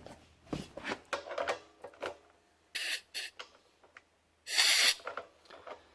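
Compressed air hissing from an outlet fitting of a 50-litre air compressor: two brief bursts about three seconds in, then a louder one a second and a half later. Light clicks and handling of the fittings come before.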